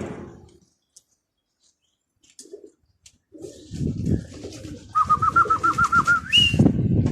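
Domestic pigeons cooing in low repeated phrases. About five seconds in, a small bird adds a quick trill of about ten high notes, ending on one higher note.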